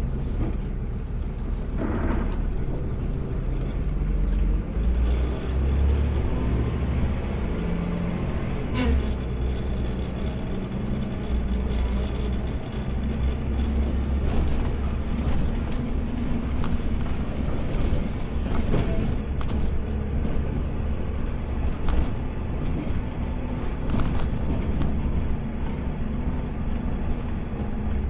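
Automated side-loader garbage truck heard from the driver's cab: a steady, deep diesel engine rumble with a few sharp clicks and knocks scattered through it.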